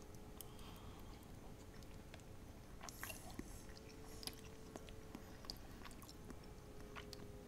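Faint chewing of a mouthful of microwaved macaroni and cheese, with scattered soft mouth clicks over a faint steady hum.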